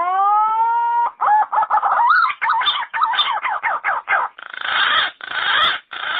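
Yellow-footed green pigeon singing: a long rising whistled note, then a quick run of wavering, up-and-down whistles that turns harsher and rougher toward the end of the phrase.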